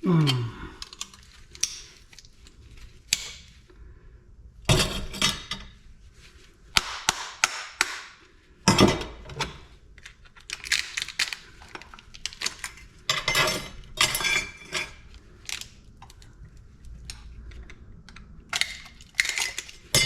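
Metal parts of a PTAC air-conditioning unit clanking and clattering as it is taken apart for scrap, with many sharp knocks and clinks at irregular intervals and a few louder impacts.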